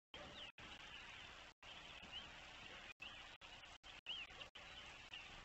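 Faint small birds chirping outdoors: short high chirps scattered over a steady hiss. The sound cuts out completely for a split second several times, as in a glitchy stream.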